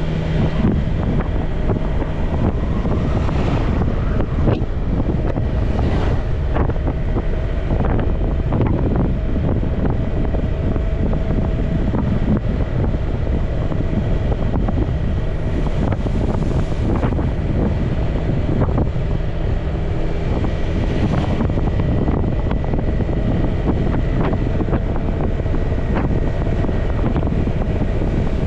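Wind buffeting the microphone on a moving motorbike, over the steady running of the motorcycle engine and road noise.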